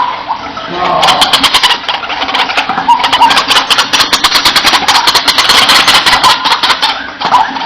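White-breasted waterhen calling: a fast run of harsh, rapid clicking notes mixed with croaking calls, starting about a second in and easing off near the end.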